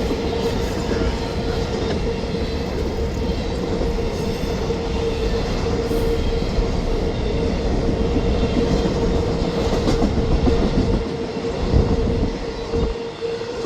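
A train passing at close range: loud rumble of the cars with rail clatter and a steady tone running underneath, getting quieter with a few knocks near the end as the train goes by.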